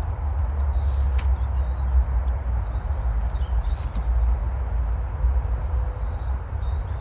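Small birds chirping and calling, short high notes scattered throughout, over a steady low rumble.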